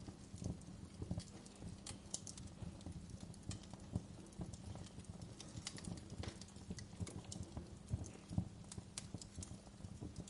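Wood fire burning in a fireplace, with irregular crackles and sharp pops over a steady low rumble of flame. A few louder pops stand out, around four seconds in and near eight seconds.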